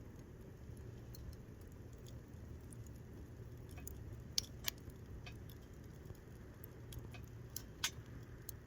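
Scattered light clicks and taps over a steady low rumble, with two sharper pairs of clicks about halfway through and near the end.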